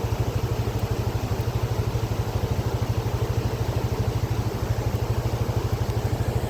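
A vehicle engine running steadily, with an even, rapid pulse of about ten beats a second.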